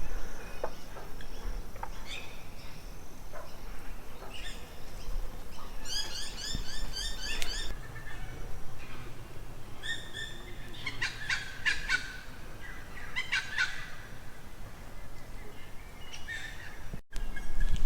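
Birds calling: runs of rapid repeated high notes, one about six seconds in and more from about ten to fourteen seconds in.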